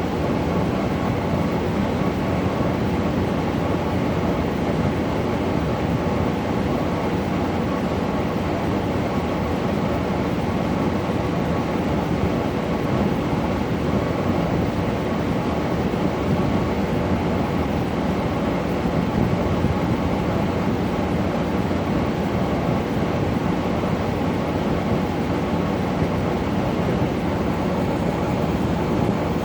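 LG air conditioner running with its compressor and fan on: a steady hum with a few faint steady tones over the rush of air.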